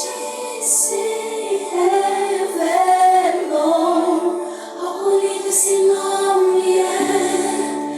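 Christian worship song sung by a group of women's voices over sustained backing chords.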